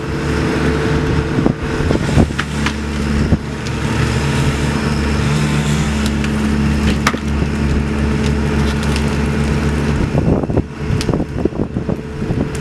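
An engine running steadily, with scattered sharp knocks and cracks over it.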